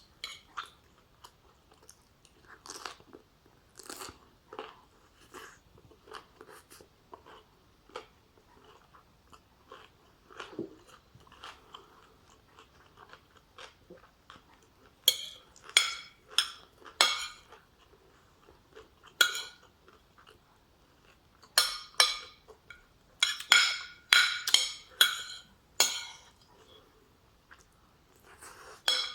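A person chewing and crunching food, with many short wet mouth clicks. The crunches are softer and sparse at first, then come louder and closer together from about halfway through.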